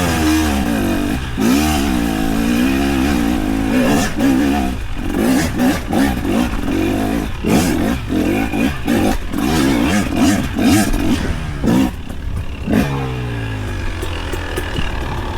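A small vehicle engine revving up and down over and over, its pitch rising and falling, then winding down near the end.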